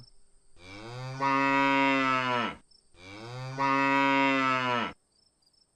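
A cow mooing twice: two long, low, steady calls of about two seconds each, with a short gap between them.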